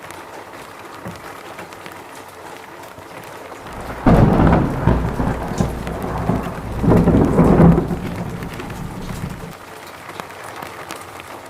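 Steady rain falling, with a thunderclap about four seconds in that rumbles in two surges and dies away over the next five seconds.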